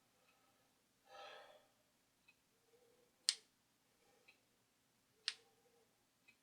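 Quiet handling of the record player's small motor parts: a brief soft rustle, then two sharp metal clicks about two seconds apart.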